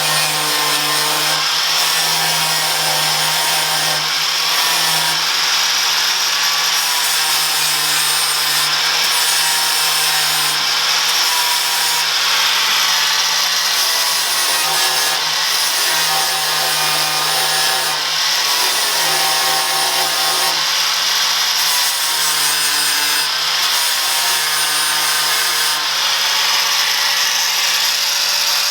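Cordless angle grinder running continuously, grinding the stubs of cut-off trim-clip tabs flush on a car body panel, its pitch wavering slightly as it bears on the metal.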